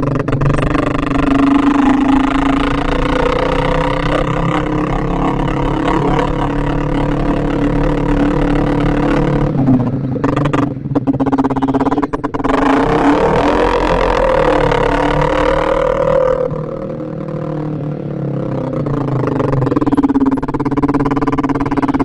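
Yamaha Vixion single-cylinder motorcycle engine running under way, its pitch moving with the throttle. It eases off briefly twice about halfway through, then revs up and drops back.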